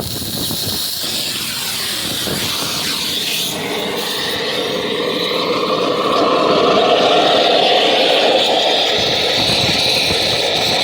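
Oxygen lance burning into a seized excavator pin: a loud, steady rushing hiss of oxygen and burning metal. About four seconds in it settles into a steadier droning tone under the hiss.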